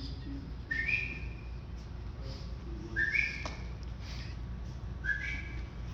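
Three short two-note whistles about two seconds apart, each a lower note stepping up to a higher one.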